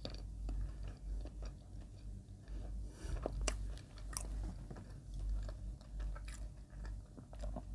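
Close-miked chewing of soft white bread spread with Lotus Biscoff speculoos spread: slow, wet mouth sounds at a steady chewing rhythm, with a few sharp clicks about halfway through. Near the end comes a sip from a paper cup.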